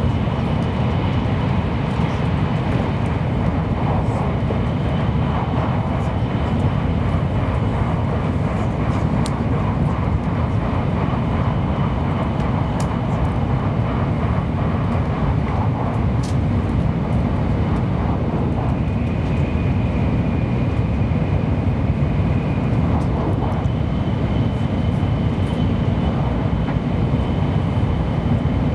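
Steady running noise inside the passenger cabin of a 700 series Shinkansen at high speed: an even low rumble and rush from the wheels and the air. A faint high whine fades in and out above it.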